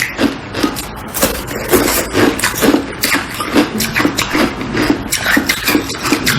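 Ice being chewed close to the microphone: a rapid, uneven run of crisp crunches, several a second.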